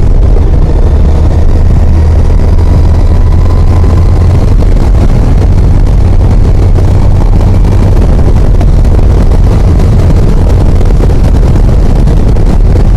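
Yamaha FJR1300 inline-four motorcycle running steadily at road speed, its low engine hum mixed with loud rushing wind over the bike-mounted microphone. The low hum eases a little about halfway through.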